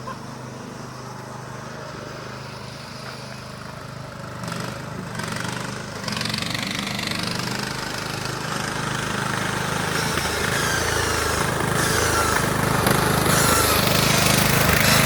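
Riding lawn tractor's small engine running, getting steadily louder as the tractor approaches.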